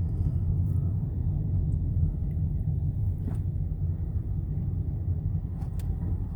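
Steady low rumble of a moving truck, engine and road noise heard from inside the cab, with a few faint clicks.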